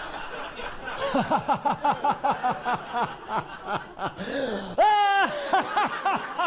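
A person laughing in a quick, regular run of "ha-ha-ha" that starts about a second in, with a high rising squeal of laughter about five seconds in.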